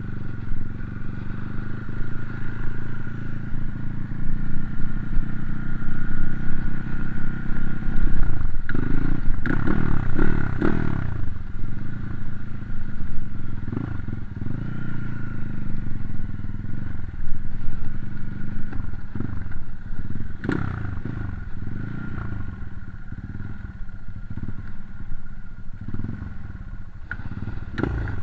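Motocross dirt bike engine running and being revved, its pitch steady at first, then rising and falling repeatedly about a third of the way in, with a few sharp knocks.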